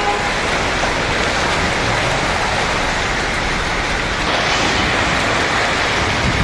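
Heavy rain mixed with hail pouring onto pavement and parked cars: a loud, steady, dense hiss.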